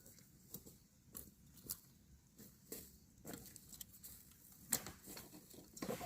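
Faint, irregular rustles, clicks and soft knocks, the sharpest click a little under five seconds in and a few duller knocks near the end.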